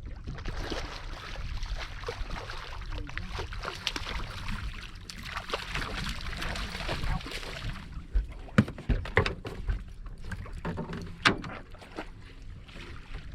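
A fishing boat under way: a steady low motor rumble with a rushing hiss of water and wind that fades about eight seconds in, followed by several sharp knocks and thumps against the boat.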